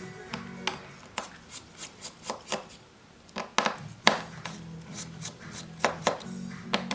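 Irregular sharp clicks and taps of small tools and parts being handled during a smartphone screen repair, the loudest about four seconds in, over low background music.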